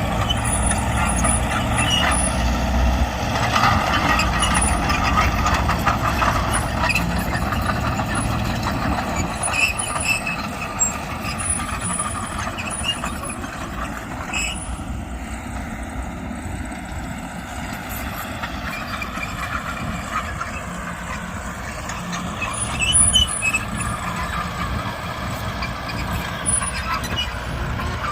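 Heavy earthmoving machinery running: the diesel engines of a bulldozer and a dump truck working, with a steady mechanical noise that briefly grows louder near the end.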